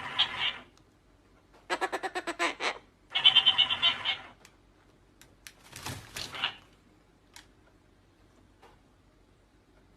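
A pet parrot squawking in three quick stuttering bursts over the first four seconds, then giving one rougher call about six seconds in; the last few seconds are nearly quiet.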